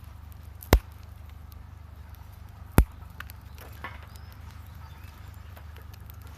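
Wood fire crackling in a small folding fire stand: two sharp loud pops about two seconds apart, then a few faint ticks, over a steady low rumble.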